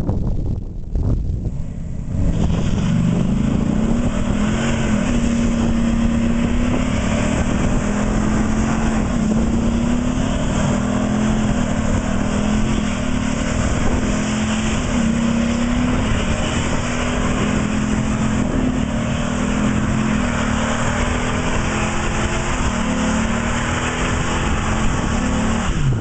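Dodge Ram SRT-10's 8.3-litre V10 held at high revs while the rear tyres spin in a smoky burnout, starting about two seconds in, the engine note wavering slightly as it runs.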